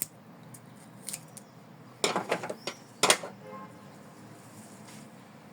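Adhesive tape being pulled and handled as ribbons and laces are taped down in an embroidery hoop: a quick cluster of short crackles about two seconds in and one sharper crackle a second later, with a few faint ticks before.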